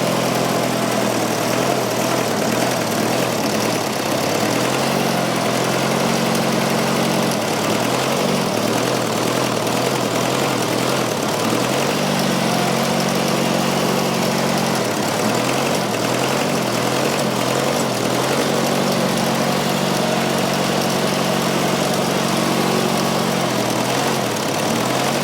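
Fordson Super Major's 3.6-litre four-cylinder diesel engine running rough under load, its speed rising and falling a few times as the clutch is let out and the tractor fails to move. It is down on power, which the crew takes to be a dead cylinder with a loose number 4 injector, probably running on three cylinders.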